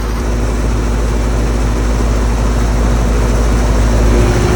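Carrier Comfort Series 4-ton central air conditioner condenser running: a steady hum from its scroll compressor under the whoosh of the condenser fan.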